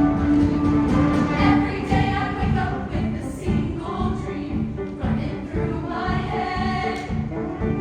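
A show choir singing with a live band accompanying.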